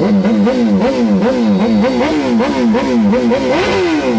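A motorcycle engine revved in quick, regular throttle blips, about three a second. Near the end comes one longer rev, and then the revs fall away.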